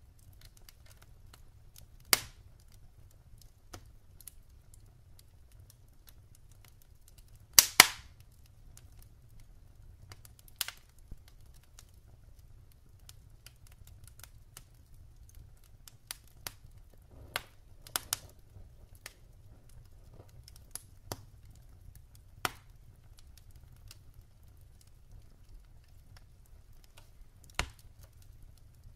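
Wood fire crackling in a fireplace: sparse, sharp pops and cracks from the burning logs every few seconds, the loudest a close double crack about eight seconds in, over a faint low rumble.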